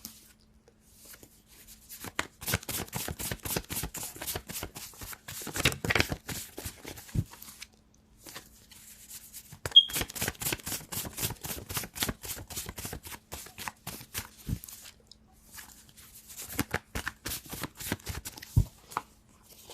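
A deck of tarot cards being shuffled by hand: three runs of rapid flicking card clicks with short pauses between them, and a few soft knocks of the deck.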